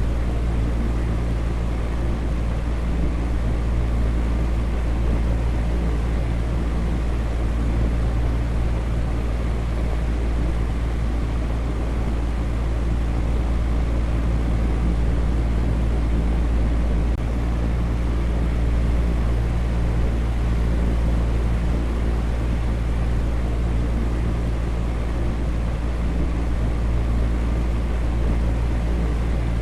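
Electric fan running steadily: an even noise with a strong low hum and faint steady tones underneath it.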